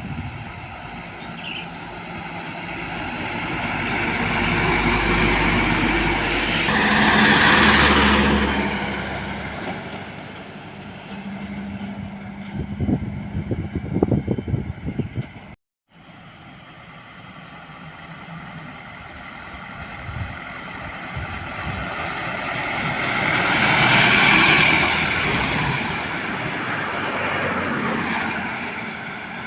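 Heavy trucks driving past on a road, engine and tyre noise rising and falling as each goes by: one pass peaks about a quarter of the way in, another near the end, with the sound cutting off abruptly just past the middle.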